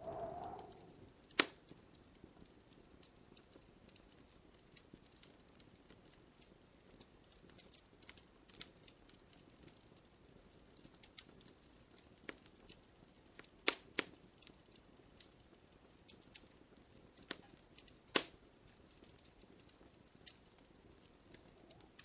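Wood fire crackling in a fireplace: scattered sharp snaps and pops over a faint hiss, with a louder pop about a second and a half in and two more in the second half.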